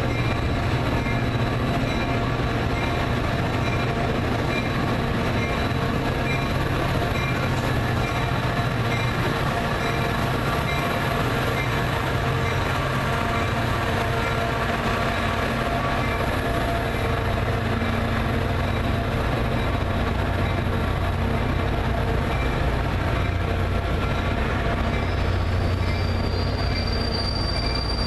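A train at a station, running steadily with a low hum. A high-pitched wheel squeal comes in near the end.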